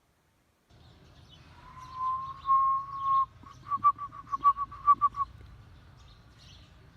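Himalayan snowcock calling: one long whistled note that rises slightly and holds, then a quick run of about a dozen short whistled notes at the same pitch.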